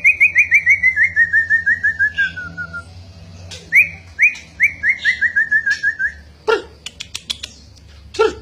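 White-rumped shama singing: two fast runs of short down-slurred whistled notes, each run sliding gradually lower in pitch, followed by a few sharp clicking calls near the end.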